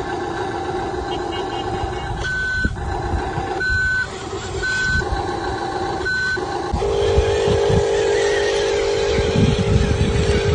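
RC toy construction vehicle running, its motor and sound unit giving a steady whine. Between about two and six seconds in, four short high beeps like a reversing alarm break in, then the steady whine returns.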